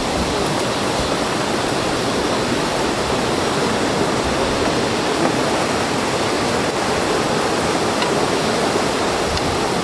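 Steady rushing of flowing water, an even roar with no breaks.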